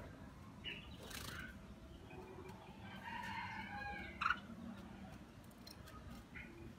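Birds calling, with a few short calls and one longer call about three seconds in, and a single sharp knock just after four seconds.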